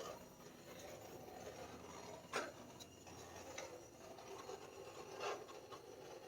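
Faint rubbing and handling noises, with a light knock about two seconds in and another about five seconds in.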